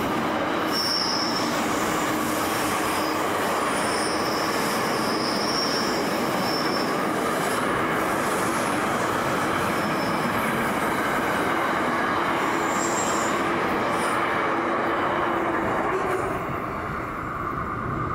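Container wagons of a freight train rolling past on curved track: a steady rumble and rattle of wheels on rail, with short high-pitched wheel squeals on and off. The noise drops away about sixteen seconds in as the last wagon passes.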